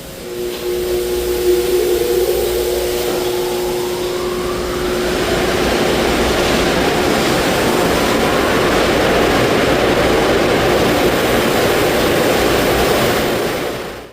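AutoVac blower dryers in a car wash tunnel spinning up, a whine rising in pitch over the first few seconds, then running with a loud, steady rush of air. The sound cuts off suddenly at the end.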